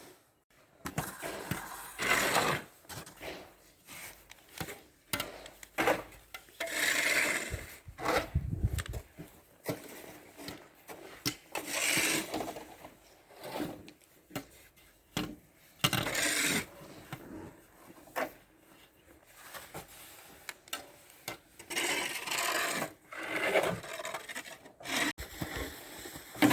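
Snow shovel scraping and pushing snow in repeated strokes, irregularly a second to a few seconds apart.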